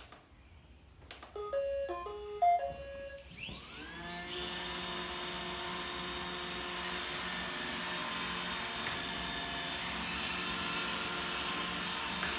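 An iRobot Roomba robot vacuum starting a spiral clean. After a couple of clicks it plays its short start-up tune of beeps. About three seconds in, its vacuum motor and brushes spin up with a rising whine and then run steadily.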